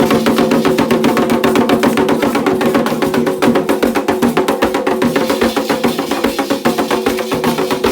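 Ritual drumming of the kind played at Candomblé ceremonies: fast, dense hand-drum strikes, played continuously with a steady beat.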